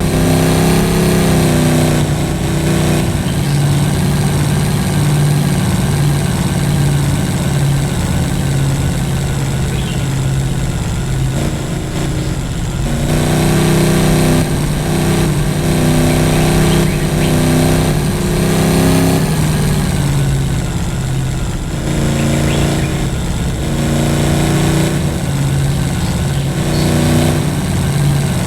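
A vehicle engine running throughout, its revs rising and falling again and again as it is driven.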